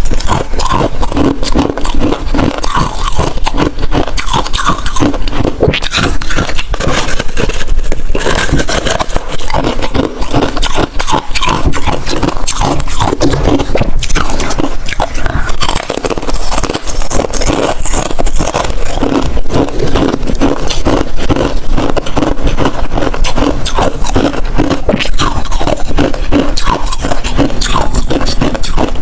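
Hard freezer ice being bitten and chewed close to the microphone: a dense, loud run of crunches and crackles that keeps going without a break.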